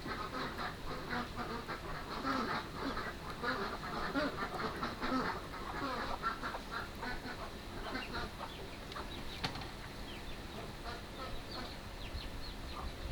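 A flock of ducks quacking, many calls overlapping, thinning out in the second half.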